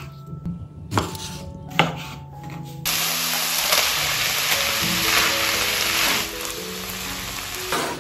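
Knife cutting cherry tomatoes on a wooden chopping board, two sharp chops. About three seconds in, a steady sizzle of minced meat, diced pepper and tomato frying in a pan as they are stirred, with background music.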